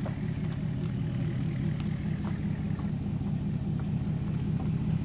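A vehicle running with a steady low rumble and a few faint clicks over it.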